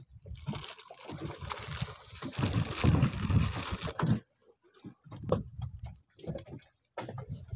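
Water splashing and sloshing against a small boat, with irregular low thumps of wind buffeting the microphone; a loud rush for the first four seconds or so, then only fitful thumps.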